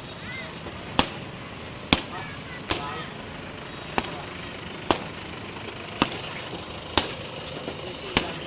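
Punches landing on a heavy punching bag: sharp thuds at a steady pace of about one a second, eight in all.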